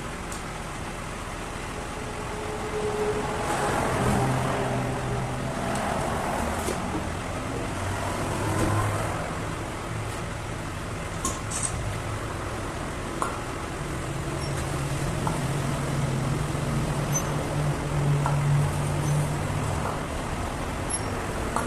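An engine running, its pitch shifting up and down, with a few light clicks.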